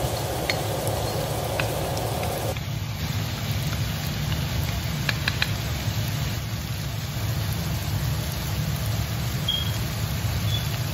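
Ground meat sizzling in a hot steel wok, a steady crackling hiss over a low hum, with a few light clicks about half a second, a second and a half, and five seconds in.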